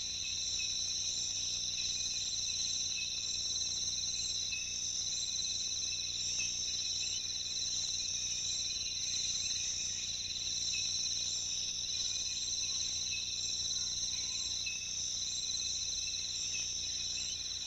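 Steady chorus of rainforest insects: continuous high-pitched trilling in several pitches at once, unbroken throughout, over a faint low hum.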